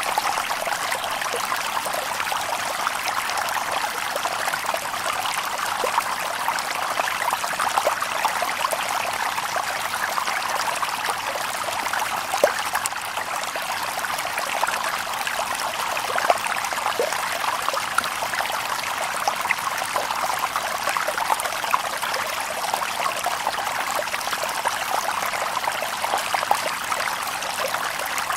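Shallow stream babbling steadily over stones, a continuous burble with small splashes and trickles scattered through it.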